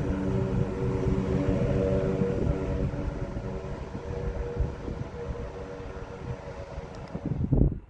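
Propeller aircraft engines droning with a steady, even-toned hum, fading away as the plane departs. Near the end a brief gust of wind hits the microphone, and then the sound cuts off abruptly.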